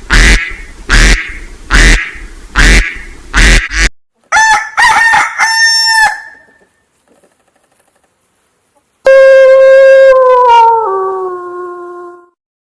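Duck-like quacking, about six harsh calls in a steady rhythm. These are followed by a few short, clear honking calls and, after a pause, one long pitched call that falls in steps.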